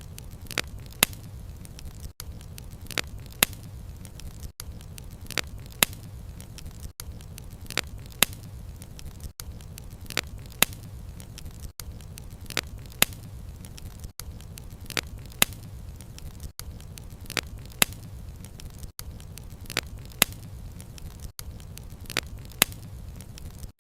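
Wood fire crackling: frequent sharp pops and snaps of burning wood, a few a second, over a steady low rumble.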